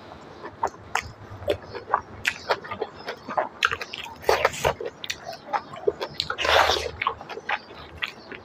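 Close-up mukbang eating sounds: a person chewing a hand-fed mouthful of rice and pork trotter curry, with many short wet mouth clicks and smacks. A louder breathy rush comes about six and a half seconds in.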